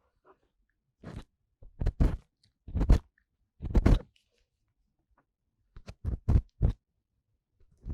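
An ear-cleaning tool scraping and rubbing inside the ear of a 3Dio binaural dummy-head microphone, in short crackly strokes with muffled rumble, with silent pauses between them and a longer pause around the middle.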